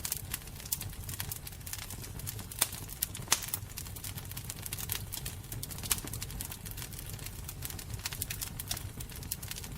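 Wood fire burning with a steady low rumble and irregular crackling, with a few sharper pops.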